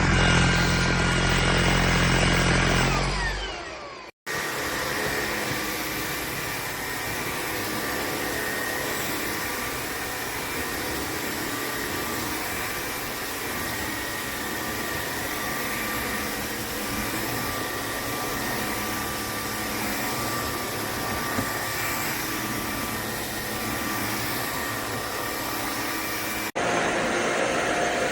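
LEVOIT LVAC-200 cordless stick vacuum running in several edited clips. A deep humming run fades out about four seconds in, and after a brief gap comes a long steady whir with a faint high whine. Near the end it cuts to a louder, harsher run.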